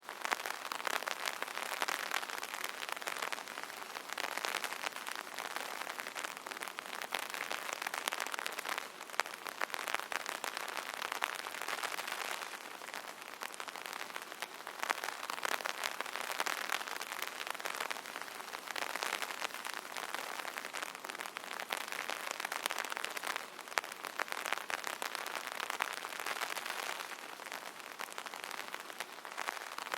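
Rain falling on an umbrella canopy: a dense, steady patter of drops that swells and eases every few seconds.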